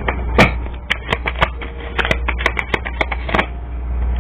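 A deck of tarot cards being shuffled: a quick, irregular run of crisp card snaps and clicks, over a steady low hum.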